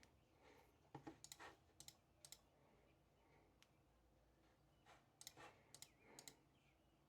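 Faint clicking and tapping in two short flurries, about a second in and again about five seconds in, against a quiet room.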